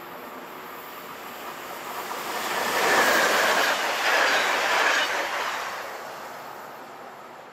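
SNCF BB22200-class electric locomotive hauling RRR regional coaches passing by. The rush of wheels on rail builds, is loudest about three to five seconds in, then fades away as the train leaves.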